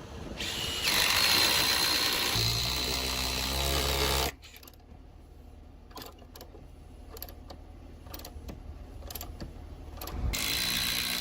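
An electric power tool running with a steady high whine for about three seconds. It cuts off, leaving a quieter stretch of scattered clicks and knocks, and starts again near the end.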